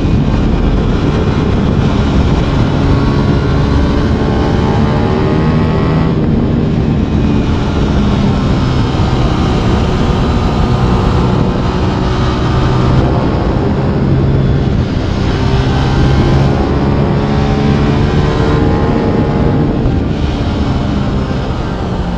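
Aprilia RS 660 parallel-twin engine under way at speed, pulling through the gears: its pitch climbs, then breaks off briefly at each of about four shifts.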